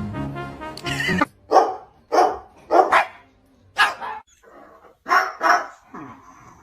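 Music for about the first second, then a dog barking, a string of about seven separate barks with short pauses between them.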